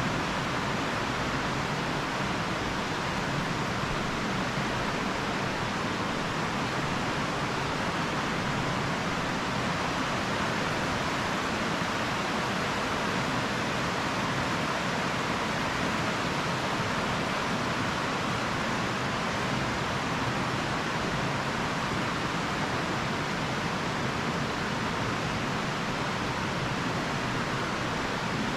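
Steady, even rushing noise that keeps an unchanging level throughout, with no distinct events.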